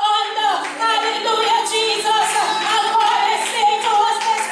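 Singing in a church service: a sung melody over steady held low notes.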